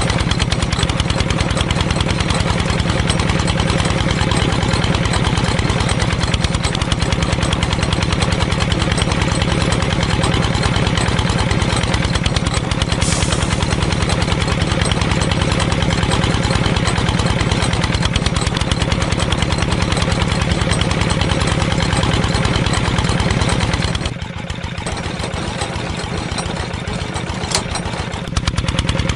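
Small engine running steadily with a rapid, even beat. Near the end it drops quieter and thinner for a few seconds, then comes back.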